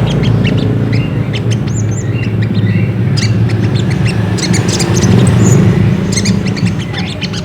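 Little spiderhunter (sogok ontong) calling: a busy run of short, sharp high chirps and slurred notes, over a steady low hum.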